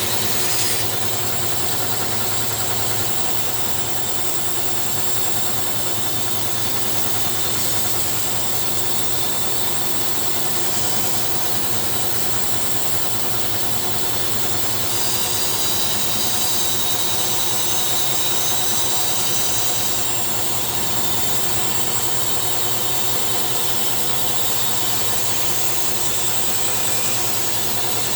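Woodworking power tool running steadily for the whole stretch, a constant motor hum and whirr with no stops, as a scrap of wood is cut out for a boat's floor frames.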